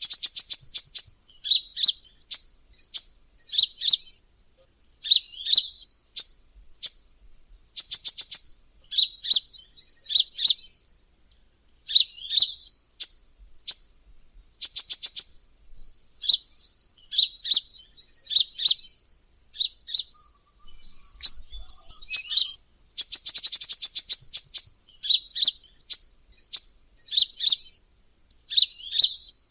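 Sunbird ('kolibri') calls: high, quick chirp phrases repeated about once a second, broken now and then by fast rattling trills.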